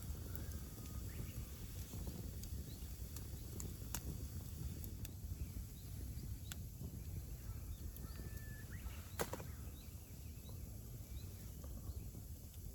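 Outdoor ambience: a steady low rumble with scattered small clicks, the sharpest about nine seconds in, and a few faint short chirps.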